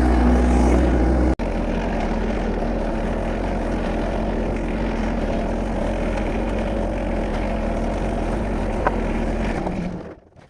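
Diesel tractor engine running steadily, with a brief sudden dropout about a second in; it stops near the end.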